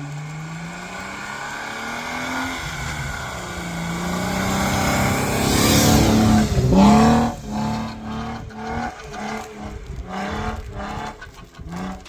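Off-road vehicle's engine revving, climbing steadily in pitch and loudness to a peak about six seconds in, then a series of short throttle bursts.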